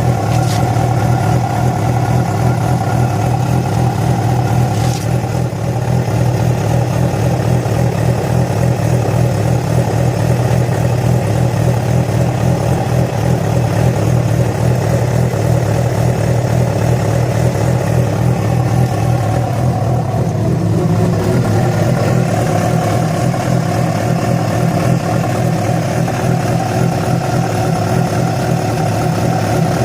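Yamaha FZ6's inline-four engine running steadily, with a noise the owner calls strange, which started after the bike was ridden about 70 km on two cylinders due to a failed ignition coil connector. Its note dips slightly about two-thirds of the way through.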